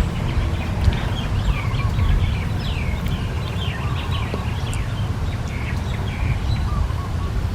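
Small birds chirping, a quick run of many short up-and-down calls over a steady low rumble.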